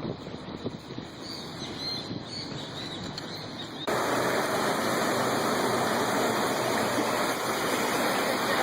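Floodwater rushing and flowing. About four seconds in, the sound jumps abruptly to a louder, steady rush. Faint high chirps come through before the jump.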